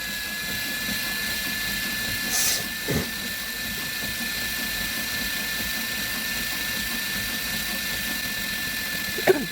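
Cordless drill running at a steady speed, spinning a small drill-driven drain snake through a clogged drain line. It makes a steady high whine, with a few brief knocks and scrapes partway through.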